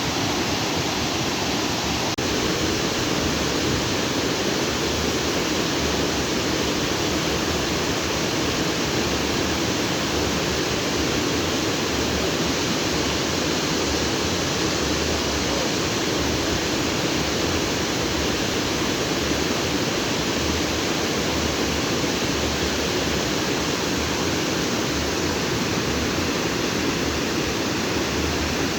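Stream water rushing and splashing over rocks in a steady, unbroken flow.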